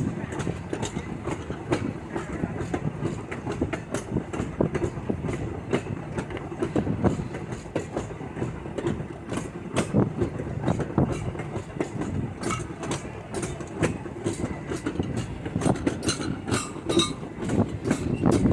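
Railroad passenger car rolling along the track: a steady low rumble under irregular clicks and knocks of the wheels over the rail joints.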